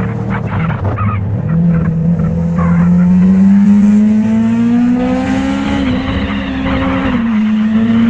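Motorcycle engine running under way, its pitch climbing steadily for a few seconds as it accelerates, then holding fairly steady.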